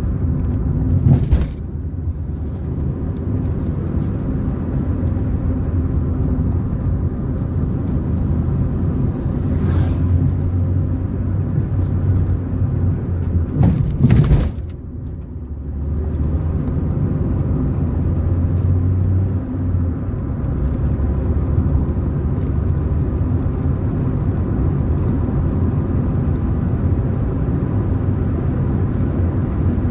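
Car driving on a road: steady low engine and tyre rumble, with two brief loud jolts, one about a second in and one about halfway through.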